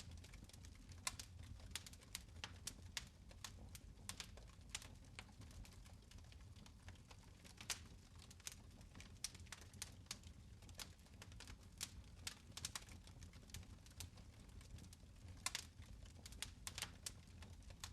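Fireplace fire crackling: irregular sharp pops and snaps, several a second, over a faint low rumble.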